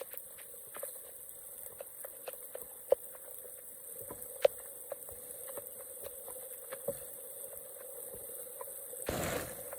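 Water dripping and pattering in irregular sharp drops, with a brief louder splash or rush of water near the end.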